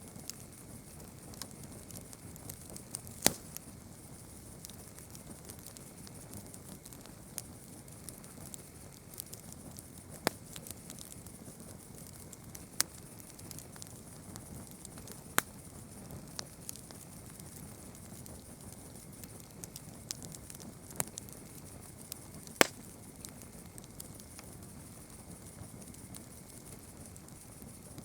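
Campfire burning with a steady soft rustle and scattered small crackles, broken every few seconds by a sharp, louder pop of the wood.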